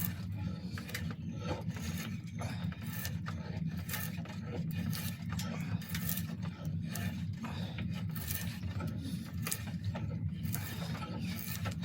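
Repeated scraping strokes of a hand tool shaving and rasping along a wooden bow limb as its thickness is tapered.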